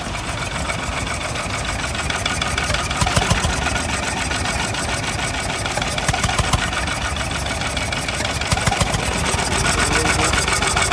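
Engine running steadily at idle close by, with a fast, even beat.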